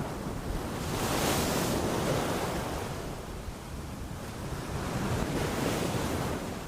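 Sea waves breaking and washing on a shore, swelling twice, about a second in and again around five seconds, then easing near the end.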